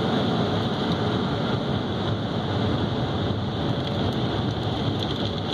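Automatic car wash dryer blowers running, a steady rush of air blowing the water off the car, heard from inside the car.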